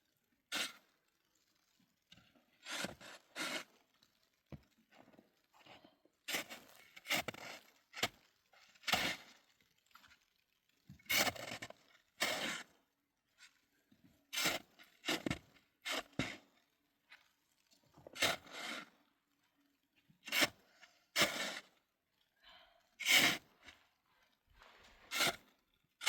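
Repeated scraping strokes, short and noisy, coming roughly once or twice a second and often in pairs, with brief pauses between.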